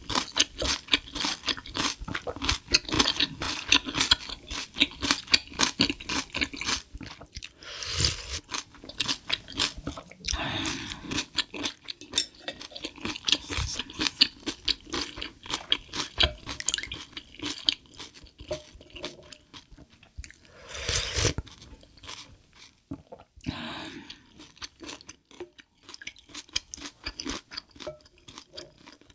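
A person chewing crunchy food close to the microphone: a fast, dense run of crunches, with a few louder bites or mouth sounds scattered through.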